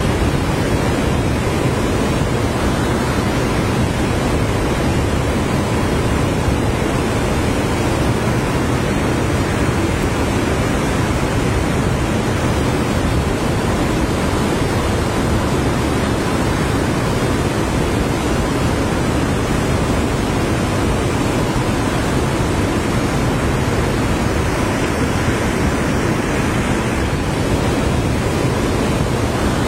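Steady rushing of fast-flowing river water churning around a whirlpool.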